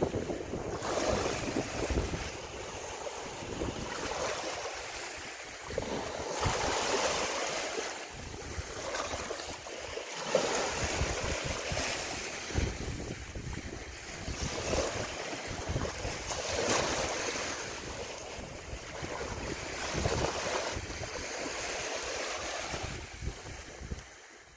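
Sea water washing and splashing in repeated swells every few seconds, with wind buffeting the microphone.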